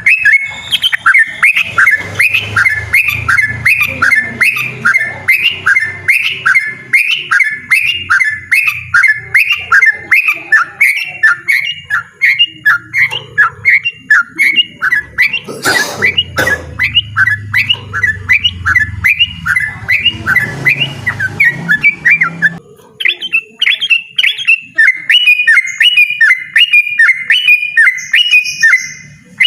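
Yellow-vented bulbul singing loudly in a long unbroken run of short repeated notes, about two to three a second, breaking off briefly about 22 seconds in before carrying on. A single knock comes about 16 seconds in, and a low hum sits beneath the song until the break.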